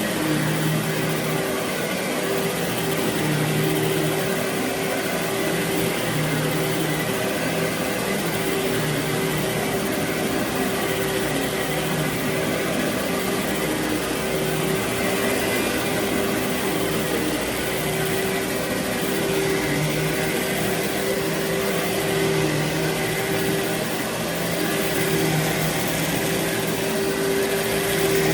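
Carpet-cleaning vacuum machinery running steadily: a constant motor hum and whine over airflow noise, with the low hum swelling and easing every few seconds as the work goes on.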